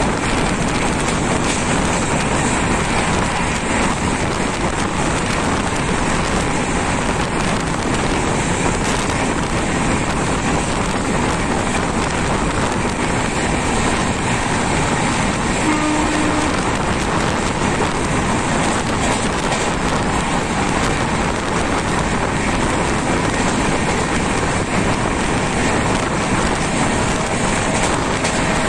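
Passenger train running at speed, heard from aboard as a loud, steady rush of wheel and wind noise.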